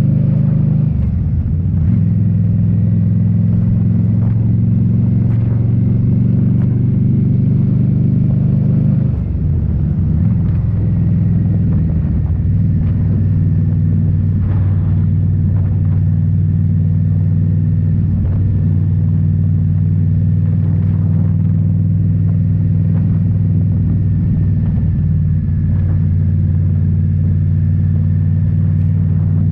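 Indian Scout Bobber's V-twin engine through Rinehart slip-on mufflers, running steadily on the road. About nine seconds in the note dips briefly, then settles into a steady, slightly lower pitch.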